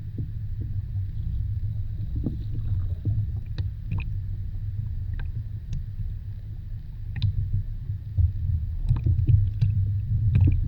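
Muffled low rumble of moving water, heard as if through an underwater camera housing, with scattered faint clicks and a few louder surges near the end.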